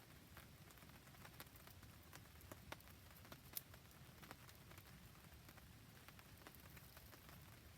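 Faint rain on a surface together with a wood campfire: a low steady hiss under many scattered small ticks and crackles, with one sharper pop about three and a half seconds in.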